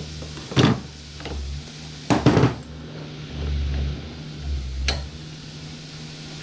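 Hand tools clanking on the mower's metal fan parts while working at a stuck socket: a knock about half a second in, a quick cluster of clanks around two seconds, and a ringing metal tap near five seconds, over a steady low hum.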